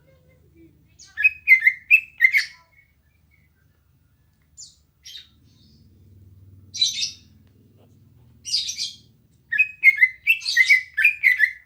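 Cucak ijo (green leafbird) singing in short bursts of varied chirps and warbled notes, with a phrase about a second in, a few sharp calls mid-way, and a longer rapid run near the end.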